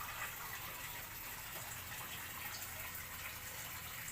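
Steady rushing noise like running water, with a few faint short bird chirps.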